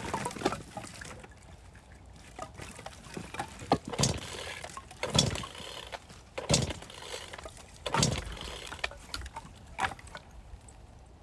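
A series of about eight irregular knocks and thuds from firewood being handled and set down.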